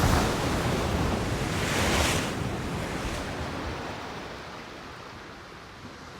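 Ocean waves breaking and washing in, two surges about two seconds apart, then slowly fading.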